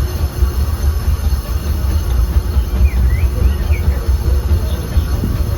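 Disneyland Railroad passenger car rolling along the track: a steady low rumble of wheels on rails, with faint high wheel squeals in the middle.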